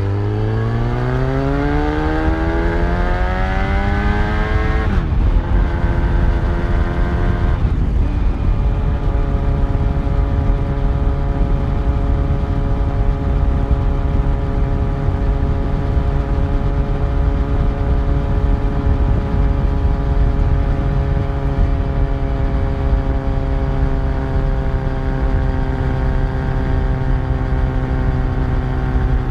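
Yamaha FZ1's inline-four engine under way. The revs climb through a gear for about five seconds, drop with a gear change, drop again with another shift a couple of seconds later, then hold a steady note while cruising.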